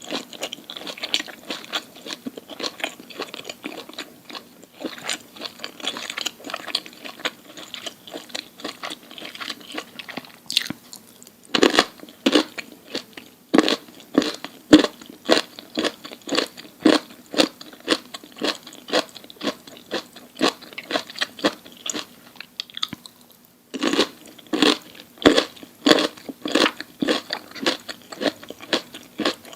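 Close-miked ASMR chewing of crunchy food: softer, busy chewing at first, then loud, regular crunches about two a second, broken by a short pause about three-quarters of the way through.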